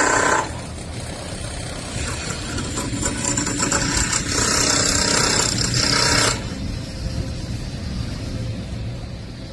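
Drydock work noise: a steady low rumble of machinery, with a louder harsh, rasping power-tool sound from about two seconds in that stops abruptly about six seconds in.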